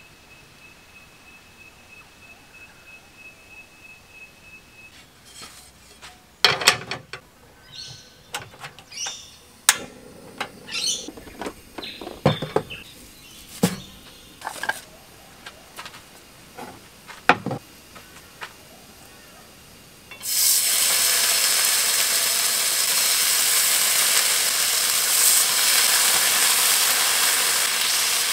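A few clinks and knocks of cooking gear being handled, then food laid into a hot pan starts sizzling loudly and steadily, beginning suddenly about two-thirds of the way through.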